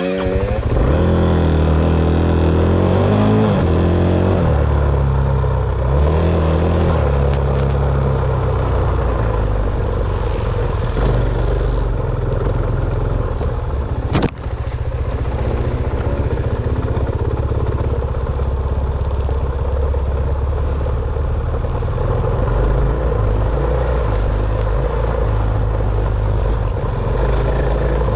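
Dirt bike engine being ridden, revving up and down over the first few seconds, then running at a fairly steady pace. A sharp click comes about halfway through.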